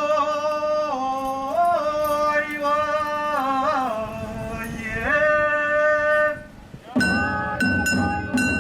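Festival float music: a single voice sings long held notes with slow bends in pitch, then about seven seconds in drums and clanging cymbals strike up under a high held note.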